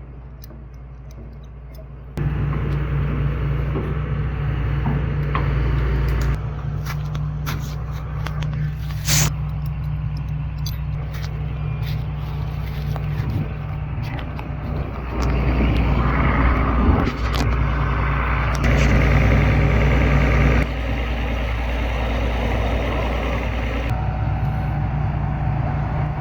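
Diesel excavator engine running under load, its level stepping up and down several times, with scattered knocks and scrapes from the work.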